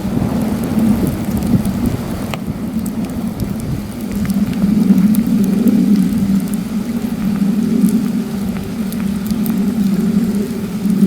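Heavy wind gusting over the microphone with a low rumble, rising in a stronger gust about four seconds in, over a campfire crackling with small scattered pops.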